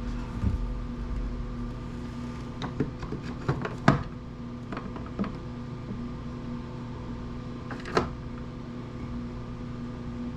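Small hand tools and metal bits clicking and knocking as they are handled on a workbench, in a cluster about three seconds in and one sharper knock near eight seconds, over a steady hum.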